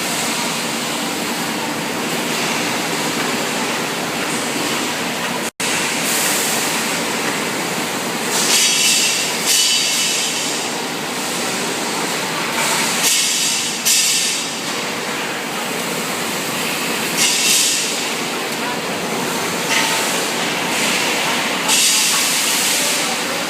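Automatic wet enamel coating machine running with a steady mechanical noise, broken every few seconds by a hissing burst of spray lasting a second or so as the enamel is sprayed onto a water heater liner.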